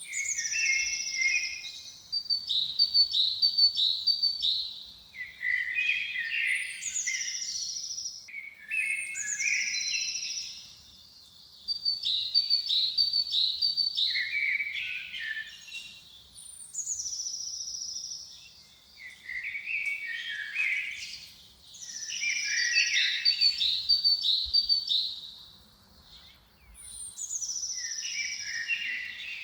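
A songbird singing the same short song phrase over and over, with brief pauses between phrases. Each phrase opens with a high falling whistle and runs on into a quick series of lower chirping notes.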